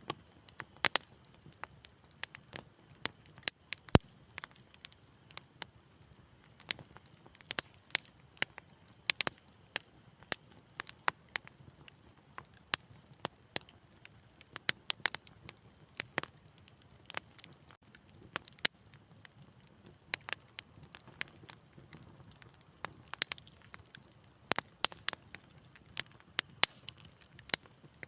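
Fire crackling in a fireplace: a steady scatter of irregular sharp pops and snaps over a faint low hiss, with one louder pop about four seconds in.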